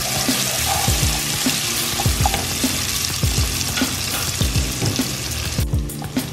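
Diced onion sizzling in hot olive oil in a nonstick pan, stirred with a wooden spoon, with a steady low beat of background music underneath. The sizzle drops out for a moment near the end.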